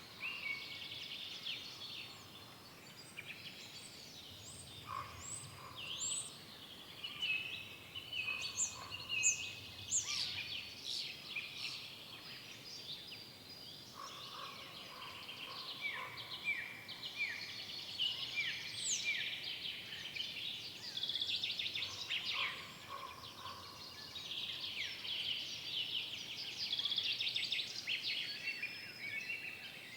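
Several songbirds singing at once in woodland, with overlapping chirps, trills and short whistled phrases, one bird repeating a quick falling note over and over in the middle.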